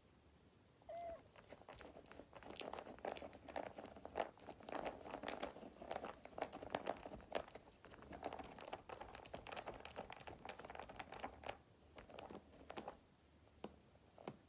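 A kitten scratching and digging in cat litter in a litter box: a run of quick, gritty scratching strokes, thinning out near the end, with a short high squeak about a second in.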